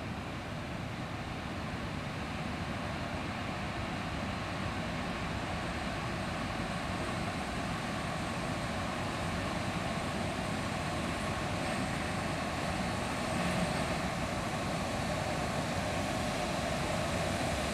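Electric locomotive hauling a container freight train, approaching slowly, its running noise growing steadily louder.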